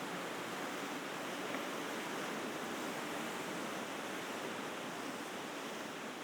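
Sea waves washing steadily against a rocky shore, a continuous surf wash that swells slightly in the middle.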